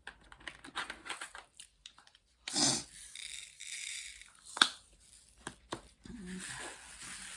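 Crinkly material being handled: irregular crinkling and tearing rustles with scattered clicks. There is a louder tearing rustle about two and a half seconds in and a sharp click near the middle.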